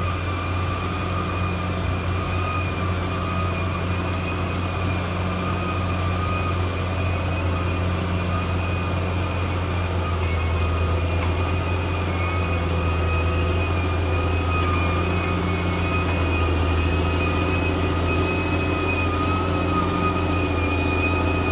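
Bulldozer's diesel engine running steadily under load, a deep drone with a steady high whine over it, growing a little louder about halfway.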